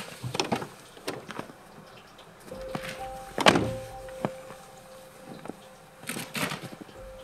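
Soft background music holding long notes, over footsteps crunching in snow close by, with one heavier thump about three and a half seconds in.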